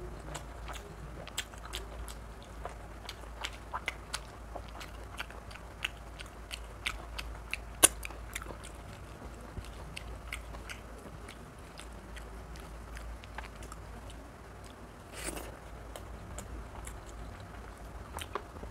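Close-miked chewing of mutton curry and rice eaten by hand, with many short, sharp wet mouth clicks and lip smacks; the loudest smack comes about eight seconds in.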